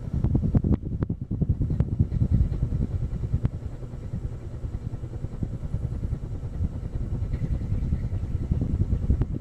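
Air from a running ceiling fan buffeting the microphone: a loud, fluttering low rumble with a few clicks, starting and stopping abruptly.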